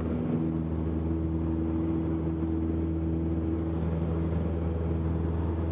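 Cessna 172's piston engine and propeller running steadily at takeoff power during lift-off and initial climb: an even, unchanging drone.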